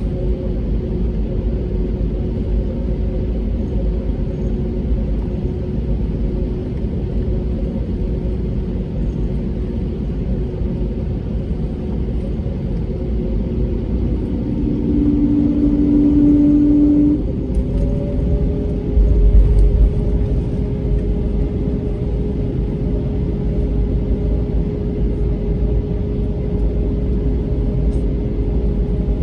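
Cabin noise of an Airbus A320neo with its Pratt & Whitney geared turbofans running: a steady low rumble with a faint hum in it. About halfway through a brief steady tone sounds for a couple of seconds, and a short low thump follows a few seconds later.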